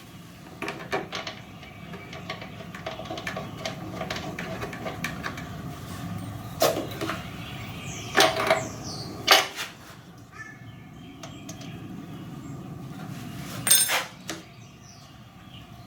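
Clicks, knocks and rattles of hands and tools working on a Husqvarna 125BT backpack leaf blower as it is readied to start again, with a few louder knocks. The engine is not running.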